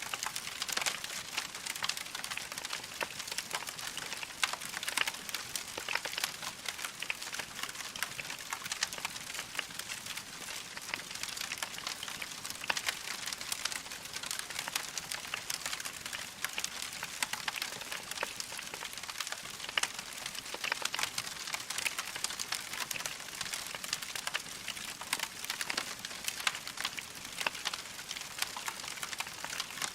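Wood log fire crackling steadily: a dense run of small pops and snaps over a soft hiss.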